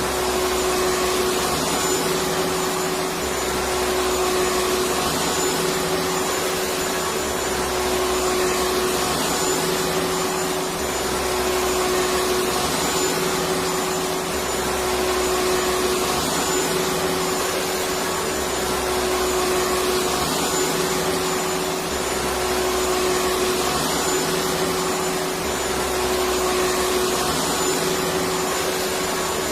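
Vacuum cleaner running continuously: a steady rushing noise with a constant hum, and a faint low throb that comes and goes about every three and a half seconds.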